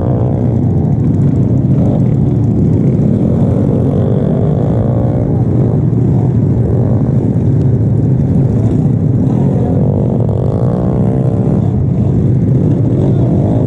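Underbone racing motorcycles passing on the track, their engines revving with pitch sweeping up and down as each goes by, about three passes. Beneath them runs a steady, loud low rumble.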